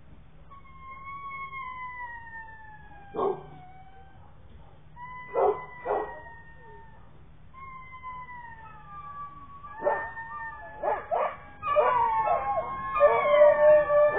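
Beagle puppies whining in long, falling whines, with a few short yips between them. Near the end several whine at once and it gets louder.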